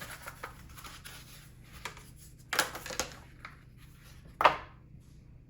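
Small plastic and metal parts handled, with rubbing and light clicks and three sharper clacks, the last and loudest a little over four seconds in, as an M.2 NVMe SSD is pressed into its motherboard slot and latched.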